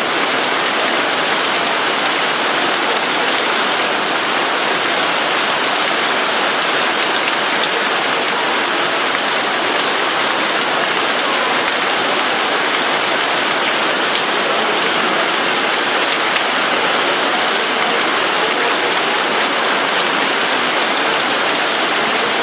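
Heavy rain falling steadily, an even hiss of water on surfaces with no break.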